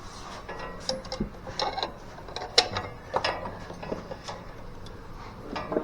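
Irregular metallic clicks, clinks and light rattles of hand work on parts and tools, a scatter of short sharp taps a few times a second.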